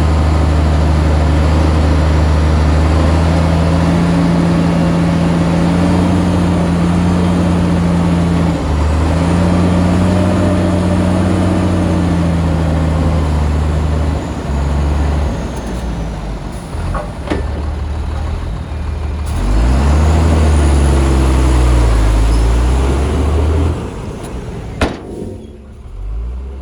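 Heavy diesel engine of earthmoving machinery working, its pitch rising and falling as the load and throttle change, with a couple of sharp clanks late on.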